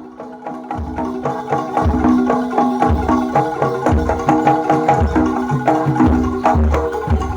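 Javanese jaranan ensemble music: struck, ringing gamelan-style notes and a held tone over a deep drum beat about once a second, fading in over the first couple of seconds.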